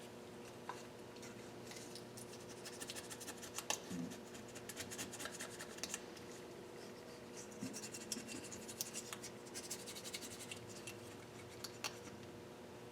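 Light hand scratching and rubbing on engine parts, in two runs of quick, irregular strokes with a few isolated ticks between them.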